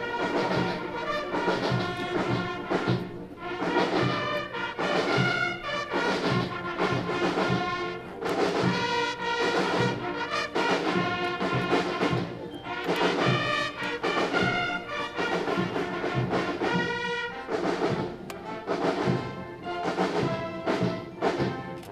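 Military band playing a march: brass instruments over a steady drum beat.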